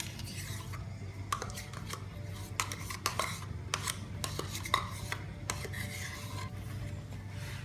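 A spoon scraping and tapping against a bowl and yogurt pots as plain yogurt is spooned out, with irregular clinks, the sharpest near the middle.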